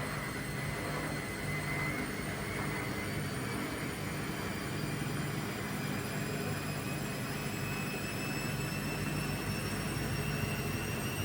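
Indesit Innex washing machine spinning up in its spin cycle: a steady rumble under a whine that slowly rises in pitch as the drum speeds up. This is the loud spin-cycle noise that the machine is being repaired for.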